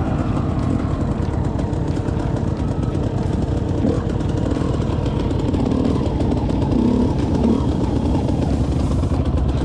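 Off-road motorcycle and quad engines running steadily, a dense low rumble.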